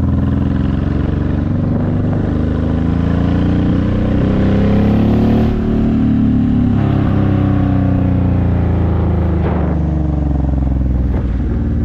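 Honda VTX1800 V-twin running through Vance & Hines aftermarket pipes while riding. The engine note climbs steadily in pitch for about five seconds, drops out briefly just past the halfway mark, then slowly falls in pitch.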